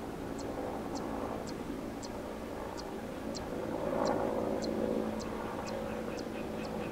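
A steady engine drone that swells and fades, with a faint high tick repeating about twice a second over it.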